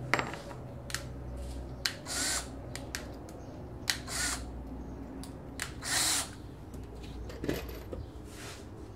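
Hand work on a workbench: scattered sharp clicks and knocks, with short scraping swishes of about half a second coming every two seconds or so.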